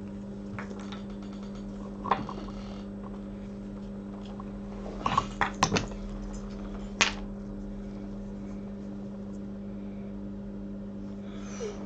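Small metal tools such as tweezers clicking and tapping at a microsoldering bench while a fine jumper wire is handled, with a cluster of sharp clicks around five to six seconds in and a louder one about a second later. Under it runs a steady electrical hum with several overtones.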